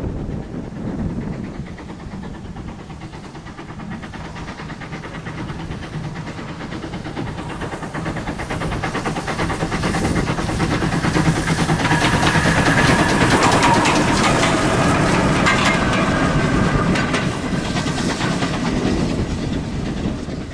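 Steam-hauled heritage train passing, its wheels clattering over the rail joints. The sound grows louder to a peak a little past halfway, then fades.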